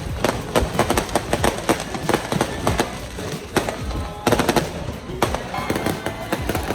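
Fireworks going off in rapid, dense bursts of cracks and pops.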